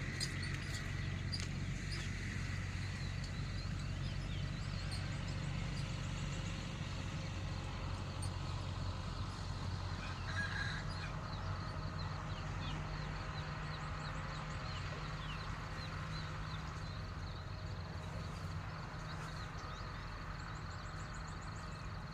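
A steady low machine hum runs throughout, with scattered small bird chirps over it and a brief louder call about halfway through.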